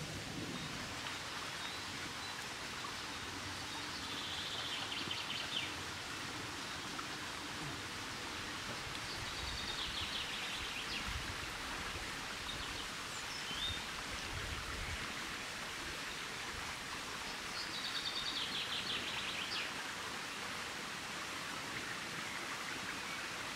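Outdoor ambience: a steady, even hiss of background noise, with a bird singing a short trilled phrase three times, several seconds apart.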